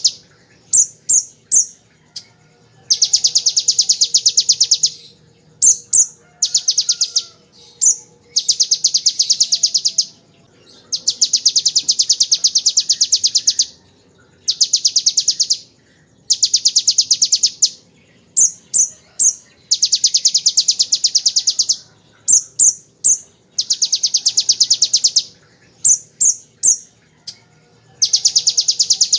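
Kolibri ninja sunbird singing rapid rattling trills in imitation of the bar-winged prinia's (ciblek) machine-gun 'ngebren' song. About nine trills of a second or two each, with short sharp chips between them.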